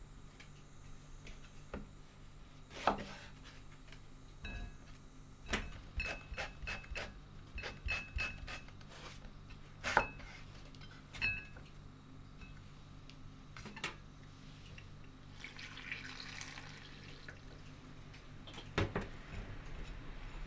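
Dishes and utensils clinking and knocking in irregular strokes, some with a short ring, during kitchen food preparation, with a brief rushing noise about three-quarters of the way through.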